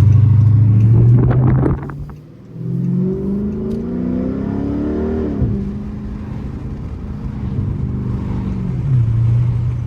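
Straight-piped 6.4-litre Hemi V8 of a 2012 Dodge Charger SRT8 under hard acceleration. It is loud at first, drops off abruptly about two seconds in, then pulls again with rising pitch for a few seconds. It falls away to a steadier, lower drone near the end.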